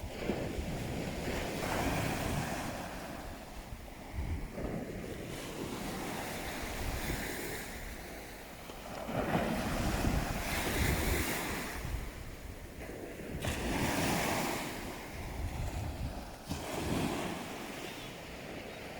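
Sea waves washing ashore in surges every few seconds, rising and falling. Wind buffets the microphone as a low rumble underneath.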